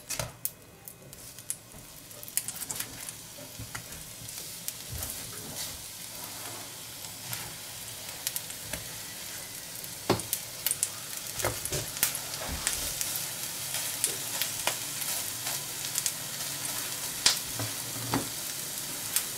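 Meat patties sizzling in hot oil in a frying pan, the sizzle growing louder over the first several seconds. A spatula knocks and scrapes against the pan now and then as the patties are turned.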